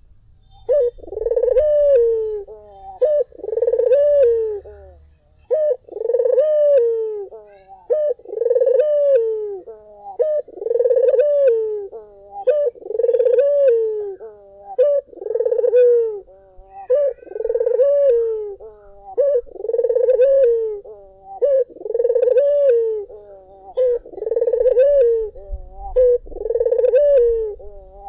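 Barbary dove (puter) cooing over and over, about one coo a second, each coo rising and then falling in pitch.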